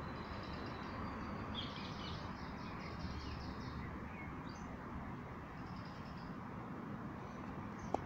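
Small birds chirping, with a run of quick repeated high notes in the first few seconds and scattered calls after, over a steady low background hum. A short click right at the end.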